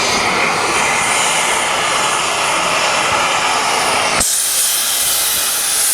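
Steam tank engine blowing off steam: a loud, steady hiss. About four seconds in it changes abruptly to a thinner, higher-pitched hiss.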